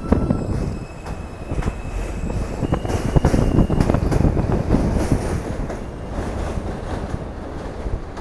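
New York City subway F train running through the station, its wheels knocking over rail joints with a thin, high wheel squeal between about one and four seconds in.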